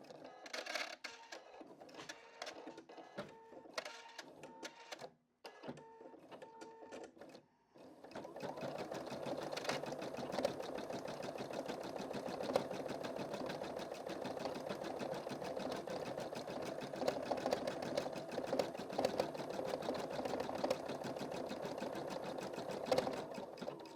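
Embroidery machine stitching a design: quieter and stop-start for the first several seconds, with two brief pauses, then a steady rapid needle clatter.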